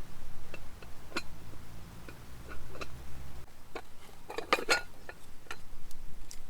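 Scattered light clinks and knocks of camp cookware and utensils, with a quick cluster of clattering about four and a half seconds in.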